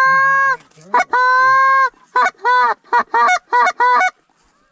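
Canada goose call blown up close to bring in a flock: two long drawn-out honks, then a quick run of short honks that stops about four seconds in.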